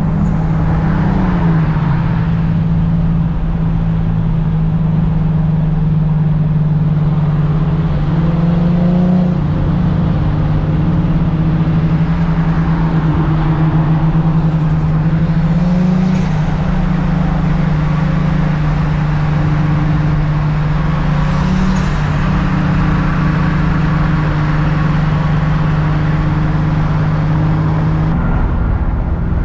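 Car engine and exhaust running at a steady cruise, the engine note holding nearly constant with a few slight rises and dips.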